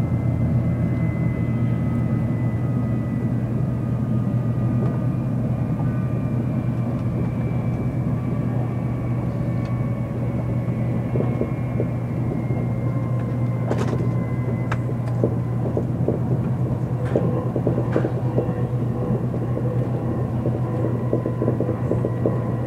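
Shinkansen running at speed, heard from inside the passenger cabin: a steady low rumble with faint, thin high tones above it. Light clicks and rattles come through now and then from about halfway through.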